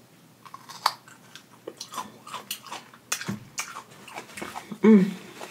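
Close-up crunching and chewing of a raw mini sweet pepper, a string of irregular crisp crunches. A short hum of the voice comes near the end.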